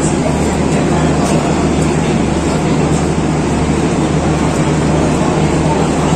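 Steady, loud mechanical hum of a passenger train standing at a station platform, with a low, even engine-like drone under a wash of noise.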